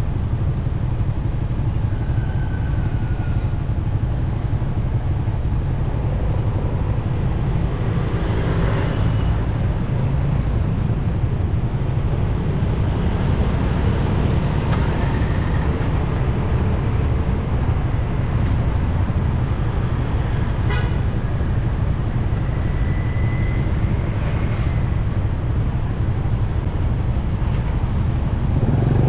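Motorcycle ride through city traffic: a steady low rumble of the engine and wind, with other vehicles around. A few short horn toots sound now and then.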